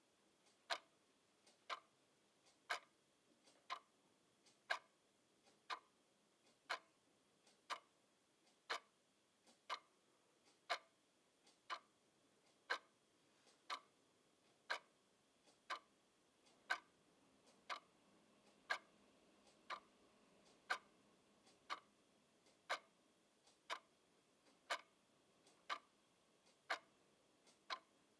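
Clock ticking steadily, one sharp tick about every second, each with a faint softer click just before it.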